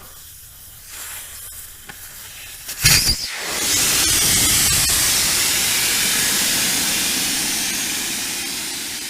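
Air rushing out of a large tractor tire's tube as it is let down: a short loud burst about three seconds in, then a strong steady hiss that slowly fades as the tire empties.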